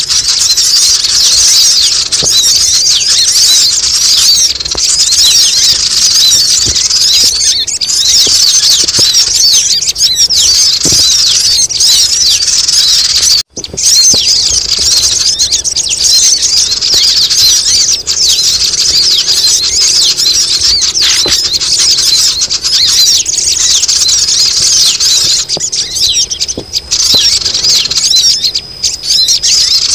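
Loud, dense chorus of many small birds chattering and squeaking at once: a noisy sogon lure call used to coax birds down. It drops out for an instant about halfway through, then carries on.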